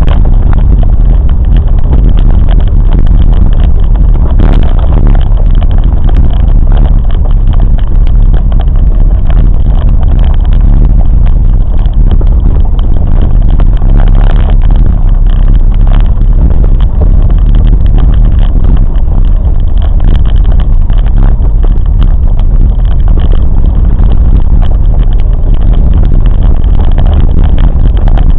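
Moving train's steady, loud low rumble, heard on board.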